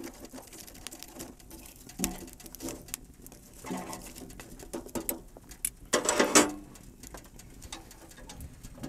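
Birds calling three times, the last call near the end the loudest, over scattered faint clicks and crackles.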